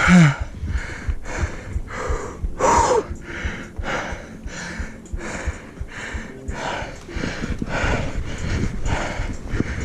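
A mountain biker panting hard while pedalling uphill, in quick even breaths about twice a second, with a short groan near the start and another about three seconds in. Tyre and trail rumble with small knocks from the bike run underneath.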